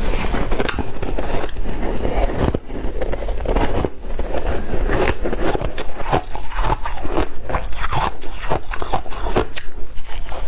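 Close-miked crunching of white ice being bitten and chewed: dense, irregular cracking and crackling with many sharp crunches.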